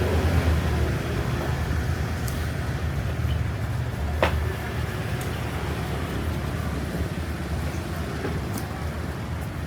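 Steady low rumble of background traffic-like noise, with one sharp click about four seconds in.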